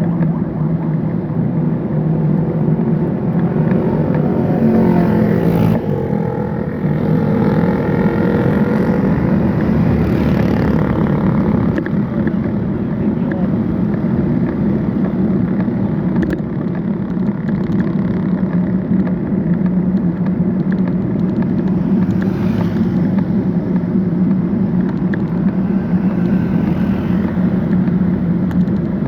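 Steady vehicle engine and road noise from traffic during a road ride, with an engine's pitch rising and falling between about four and eleven seconds in.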